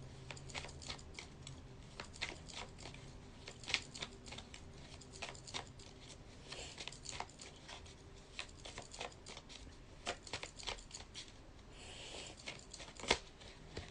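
Scattered light clicks and soft rustles from small objects being handled close to the microphone, with a louder click near the end.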